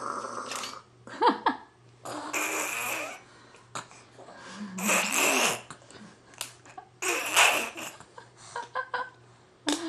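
A small child making funny noises with the voice and mouth: four short, breathy, spluttering bursts a second or two apart, with little clicks between them.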